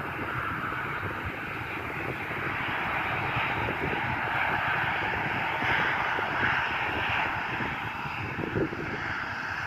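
Fixed-wing airplane engine noise: a steady rushing sound that swells slightly about six seconds in.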